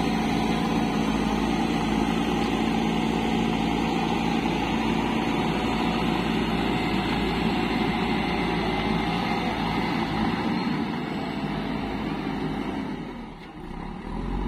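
An engine running steadily, with a short dip in loudness about a second before the end.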